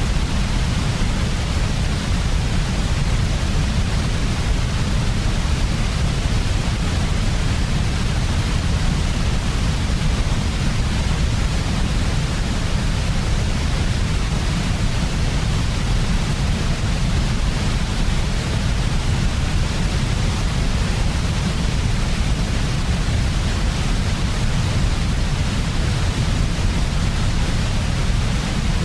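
Steady, unbroken sleep noise of the white-noise kind, with the most energy in a deep rumble and a softer hiss over it; it does not change.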